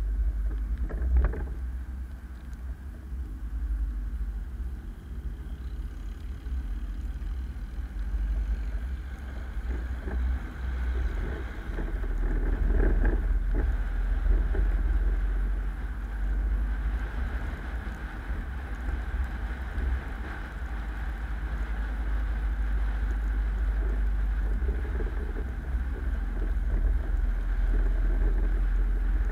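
A car driving: a steady, deep rumble of engine and road noise, growing louder for a few seconds near the middle.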